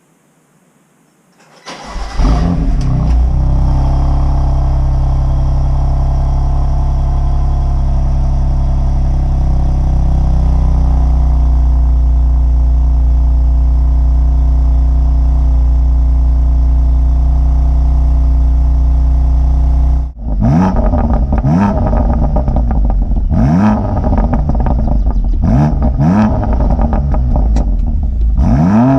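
BMW M2 Competition's twin-turbo 3.0-litre straight-six on the stock exhaust with particulate filter, cold-started: it catches about two seconds in and settles into a high cold idle that steps down slightly. From about twenty seconds in it is revved in a string of short throttle blips, each rising and falling quickly.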